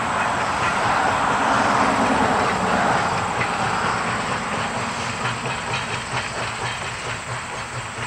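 Narrow-gauge steam train running on the line, with rail clatter at a regular beat. A rushing hiss swells over the first few seconds and then eases off.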